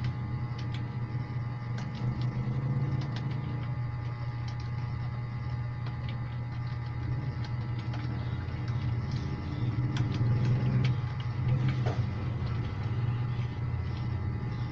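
Scattered, irregular keyboard key clicks over a louder steady low hum.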